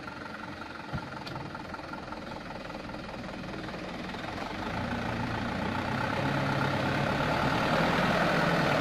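Mitsubishi Canter truck's diesel engine running under load, growing steadily louder from about halfway through.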